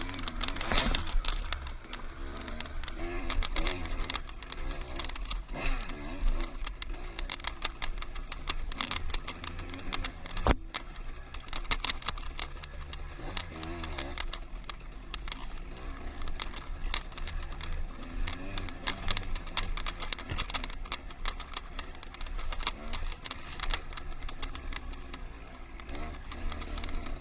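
Dirt bike engine running on a trail, its pitch shifting, with a steady low rumble and frequent knocks and rattles throughout; one sharp knock comes about ten seconds in.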